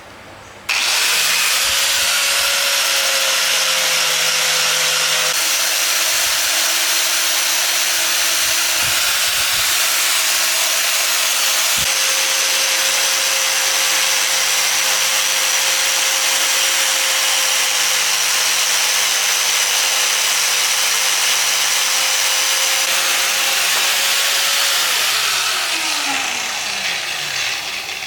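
Handheld electric power tool running steadily with a loud hissing whine, switched on under a second in. About 25 seconds in it is switched off and winds down with a falling whine.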